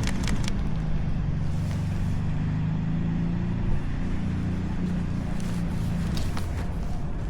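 Steady low hum of a motor vehicle engine running close by, with a quick run of sharp clicks right at the start.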